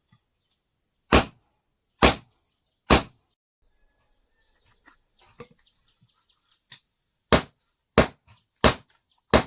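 Blacksmith's hand hammer striking a knife blade on an anvil, forging the tang that goes into a bamboo handle: three sharp strikes about a second apart, a pause with faint bird chirps, then four more strikes.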